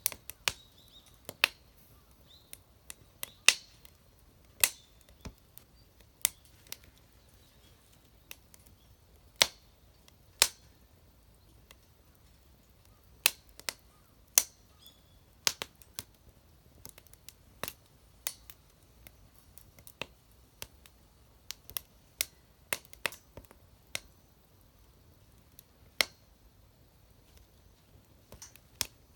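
Wood fire crackling in a homemade fire pit: irregular sharp pops and snaps at uneven intervals, a few of them loud.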